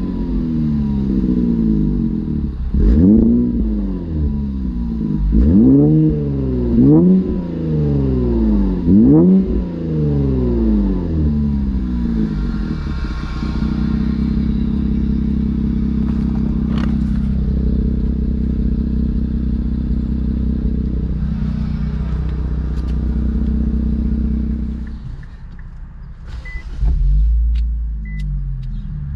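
Infiniti Q50 Red Sport 400's twin-turbo 3.0-litre V6, breathing through a Motordyne cat-back exhaust and AMS lower downpipes, blipped about five times in quick revs, then settling to a steady idle. Near the end the note dips and surges again, and three short beeps sound.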